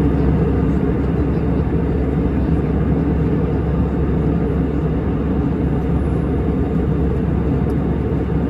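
Steady cabin drone of an Airbus A319-100 in flight: engine and airflow noise, a deep even rumble with no change.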